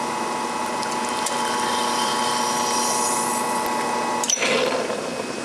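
Vintage Faema two-group espresso machine's pump running with a steady hum while a single shot is pulled, stopping abruptly about four seconds in with a click and a brief hiss as the group is shut off.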